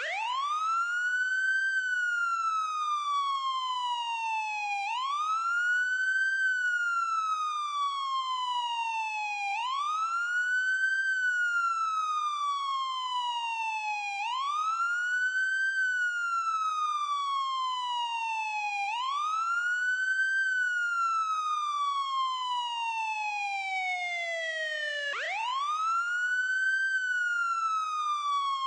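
Ambulance siren sounding a wail. Each cycle the pitch rises quickly, then falls slowly, repeating about every five seconds.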